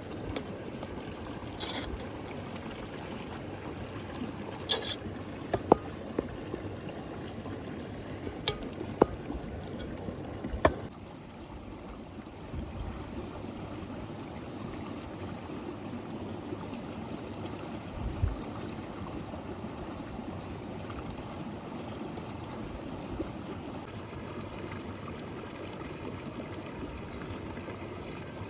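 River water flowing steadily, with a few sharp clicks in the first ten seconds or so.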